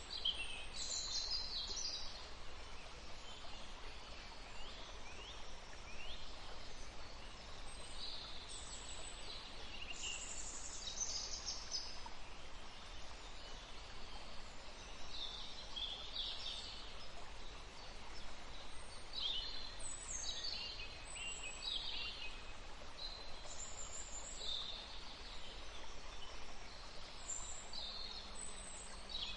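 Songbirds chirping and singing in a forest, short high calls overlapping one another, many of them quick downward slides, over a steady low background hiss.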